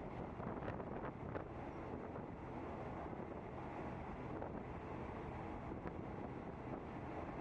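Steady rumble of a moving passenger train, with wind buffeting the microphone and a few faint clicks about a second in.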